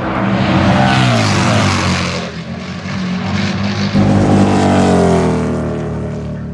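Harley-Davidson bagger race bikes (V-twin Road Glides) going by at racing speed, loud. The engine note drops as two bikes pass, one about a second in and a louder one from about four seconds in.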